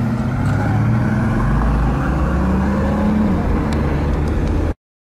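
Bugatti Veyron's quad-turbo W16 engine accelerating, its pitch climbing and easing off twice. The sound cuts off suddenly near the end.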